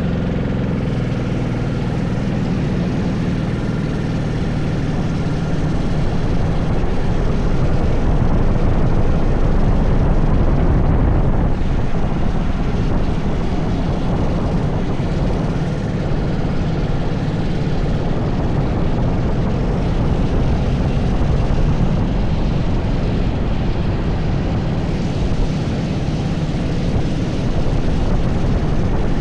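80cc racing kart engine running hard at speed, its revs rising and falling.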